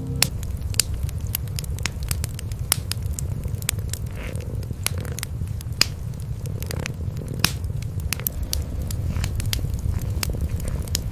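Cats purring close up, a continuous low rumble, under a wood fire crackling with frequent sharp pops. A soft rasp of grooming licks comes in about four seconds in.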